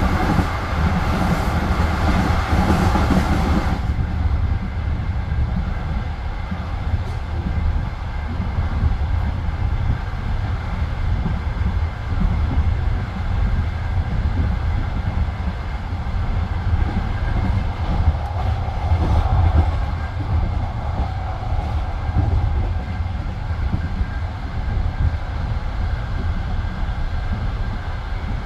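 Passenger train carriage rolling on the rails, its wheels giving a steady low rumble. A brighter hiss over the rumble in the first few seconds cuts off sharply about four seconds in.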